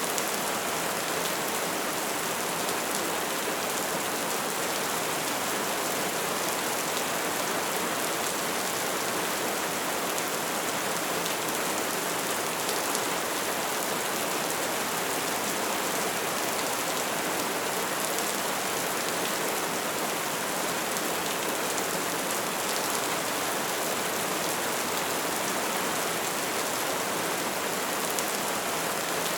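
Bonfire burning, with dense, steady crackling over a continuous hiss of flames.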